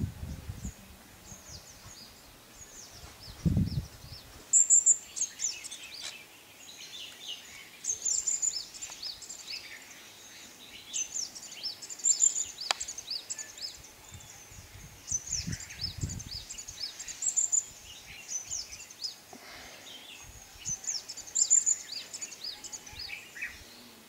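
Wild birds chirping and singing: short, high, quick notes in phrases every second or two, with several birds overlapping. A few brief low rumbles come near the start, about three and a half seconds in and around sixteen seconds.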